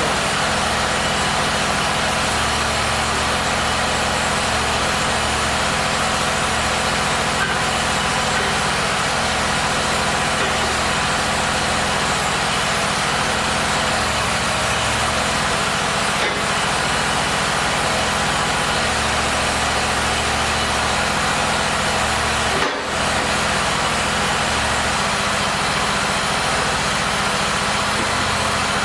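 A machine running steadily, an engine-like hum under an even hiss, with a brief dip in level about 23 seconds in.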